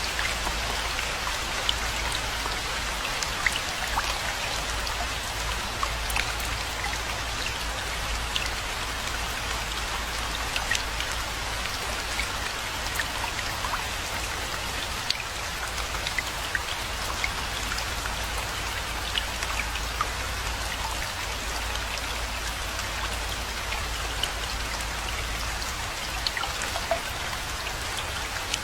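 Steady rain falling, an even hiss with many separate close drops ticking through it, over a low steady rumble.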